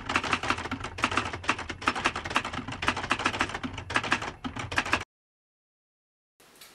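Typewriter keys clacking in a rapid run of strikes as text types out. The clacking cuts off suddenly about five seconds in, and dead silence follows.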